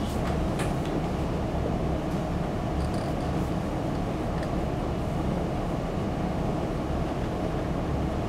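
Steady low background rumble of a lecture room, with a few faint light taps in the first half.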